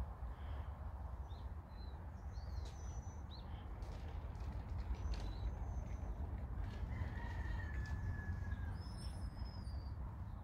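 Outdoor birds calling: scattered short high chirps, then one long, slightly falling call of about two seconds starting about seven seconds in, followed by a short higher call, over a steady low rumble.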